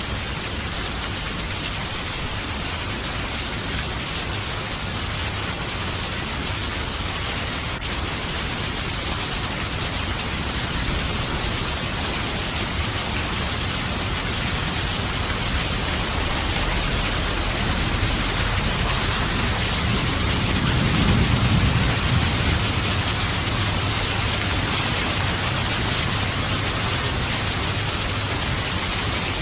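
Steady heavy rain falling, an even hiss without a break. About two-thirds of the way through, a low roll of thunder swells up and fades back into the rain.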